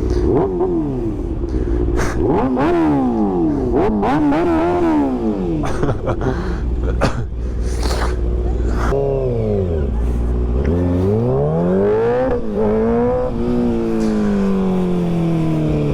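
A vehicle engine being revved over and over, its pitch rising and falling quickly in the first half, then sweeping up and down more slowly and for longer in the second half.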